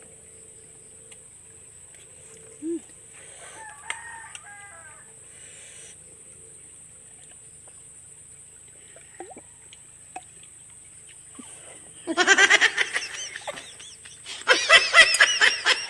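A rooster crowing once, loud and about two seconds long, some twelve seconds in, over a quiet outdoor background. Laughter begins near the end.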